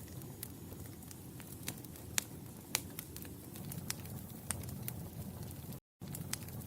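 Wood fire in a fireplace crackling: irregular sharp pops and snaps over a steady low rumble of burning, with two louder pops a little over two seconds in. The sound cuts out completely for a split second near the end.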